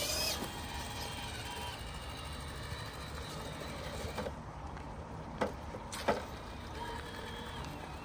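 Radio-controlled rock crawler working over rocks: a faint electric motor whine under steady outdoor noise, with two sharp knocks a little past halfway.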